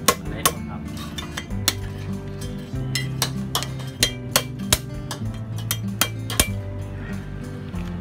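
Steel cleaver striking mud crab claws against a wooden chopping block to crack the shells: about ten sharp, irregular knocks, over background music.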